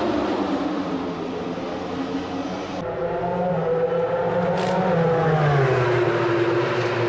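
MotoGP racing motorcycle engine running, its pitch rising and then dropping away about five seconds in.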